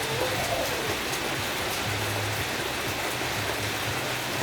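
Steady hiss of rain, with a low hum coming and going and faint music.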